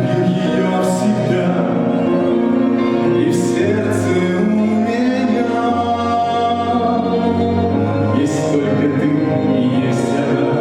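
A song from a stage musical: voices singing long held notes over an instrumental backing.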